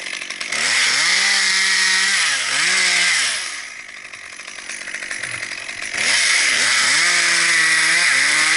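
Gas chainsaw run up to full throttle and held for about three seconds, dropping back to idle, then revved up and held high again about six seconds in.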